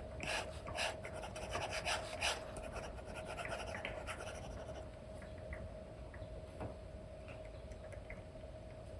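Apple Pencil nib tapping and scratching across a paper-textured screen film on an iPad: quick brush strokes, dense for the first four seconds or so, then sparser and fainter. A faint steady hum runs underneath.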